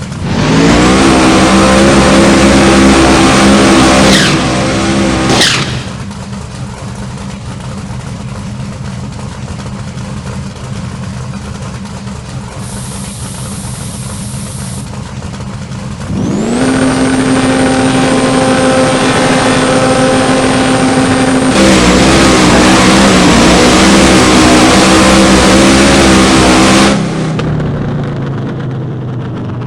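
ProCharger-supercharged big-block V8 of a 1990 Camaro drag car running at high revs with a high whine over it. It falls back about five seconds in with a falling whine, runs quieter for about ten seconds, climbs again and holds high until near the end, then drops back.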